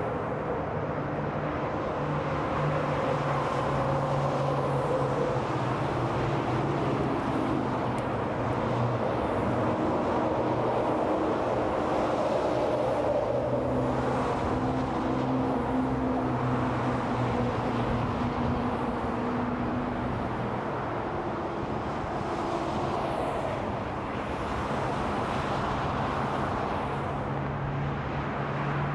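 Continuous interstate highway traffic: a steady rush of tyre noise with the engine hum of passing cars and trucks, swelling and easing as vehicles go by.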